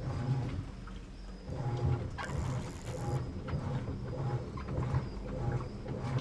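Midea Wave-Agitator washing machine running its sneaker-wash cycle: the agitator drives the water back and forth in low, rhythmic pulses about twice a second. A brief hiss comes about two seconds in.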